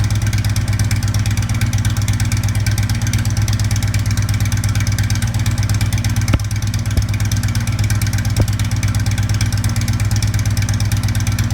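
Harley-Davidson FLHT V-twin idling steadily through Radii 3.5-inch slip-on mufflers, a copy of Rinehart mufflers, with a deep, even exhaust note. A couple of brief clicks come a little past the middle.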